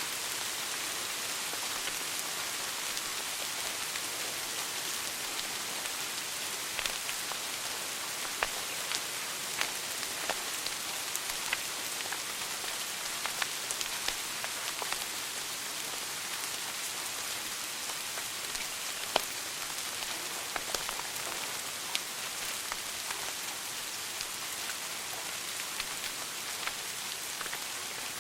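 Wood fire burning in a fireplace: a steady hiss with irregular sharp crackles and pops, one louder pop about two-thirds of the way through.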